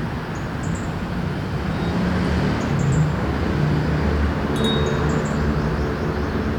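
A small wind chime tinkling now and then in a breeze, a few light strikes clustered about four and a half seconds in, over the steady low rumble of city traffic, which swells in the middle.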